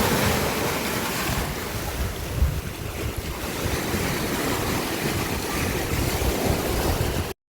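Sea waves washing in a steady rush, with wind buffeting the microphone in low gusty rumbles. The sound cuts off suddenly near the end.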